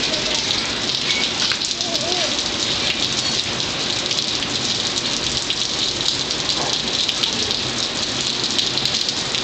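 Steady rain from a rainstorm falling outdoors: an even hiss of rain with many small drop ticks, unbroken throughout.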